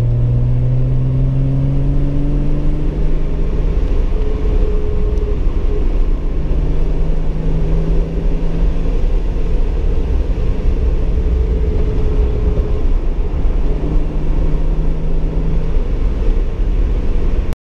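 A 1982 Datsun 280ZX's non-turbo 2.8-litre inline-six, running through headers and a cat-delete exhaust, heard from inside the cabin while driving. The engine note rises over the first few seconds as the car accelerates, then holds steady at cruise over a heavy low rumble. The sound cuts off abruptly near the end.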